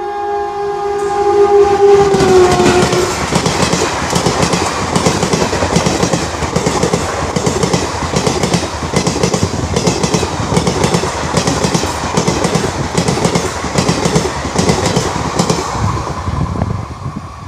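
An Indian Railways train passing close by at speed. The locomotive's horn is held, its pitch dropping as it goes past, and then the coaches rush by with a steady rhythmic clatter of wheels over the rail joints, fading away near the end.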